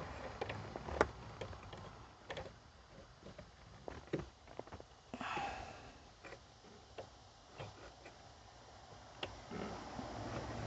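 Scattered small clicks and taps, with a short rustle about five seconds in, from hands plugging in and seating a wiring connector during dashboard reassembly.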